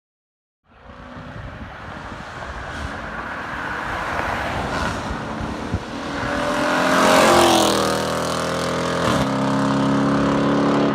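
Straight-piped 5.7-litre Hemi V8 of a 2016 Dodge Charger R/T making a loud flyby. The sound cuts in about a second in and swells to its loudest about seven seconds in as the car passes. The engine note then drops in pitch and keeps running.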